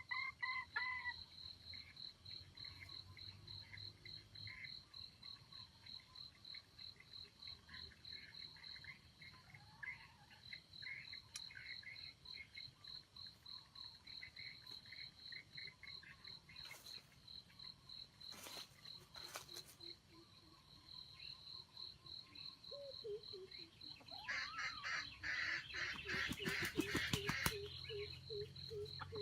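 Insects chirping in a steady, fast-pulsing high trill, with other animal calls pulsing more faintly underneath. Near the end a louder rapid rattling call runs for a few seconds.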